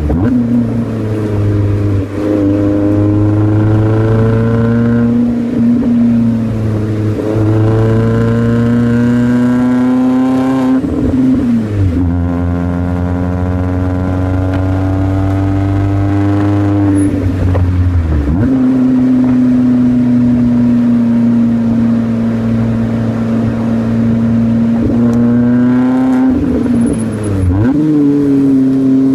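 Subaru Pleo RS's supercharged 660 cc four-cylinder running through a 5ZIGEN aftermarket muffler and a catalyst-free mid-pipe. It pulls in several long climbs in pitch, each ending in a sudden drop, as the car accelerates.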